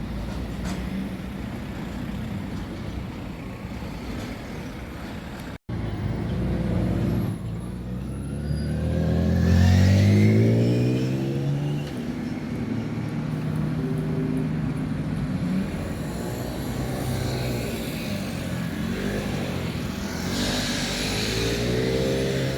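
Engine noise from passing vehicles, with one engine speeding up in a steady rising pitch about halfway through; this is the loudest part. The sound cuts out for an instant about a quarter of the way in, and later engine tones rise and fall as vehicles pass.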